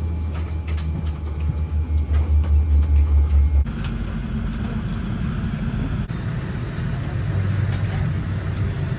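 Boeing 787-9 cabin noise on the ground after landing: a low throbbing rumble. About a third of the way in it cuts abruptly to a steadier, more even hum and hiss.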